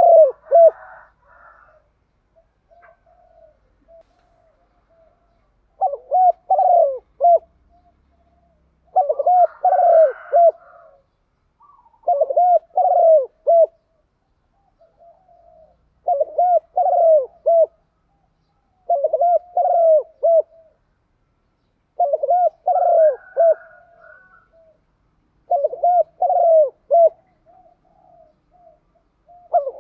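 Spotted dove (cu gáy) cooing: a phrase of several low coos repeated about every three seconds, eight times, with soft single coos in between.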